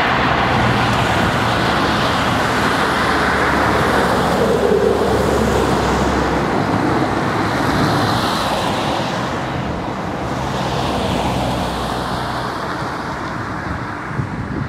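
Electric passenger train hauled by an E.402B electric locomotive running away along the line, its rumble slowly fading into a steady background rush.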